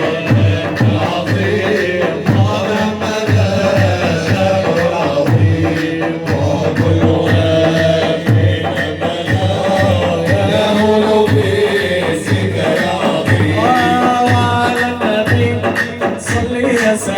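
Instrumental passage of Arabic devotional song (inshad): drums beat a steady rhythm under a held melodic line.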